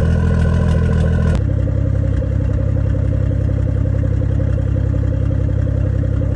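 BMW M340i's B58 turbocharged inline-six running steadily on a cold start, fitted with an aftermarket downpipe and tune. Its tone changes about a second and a half in, then holds steady.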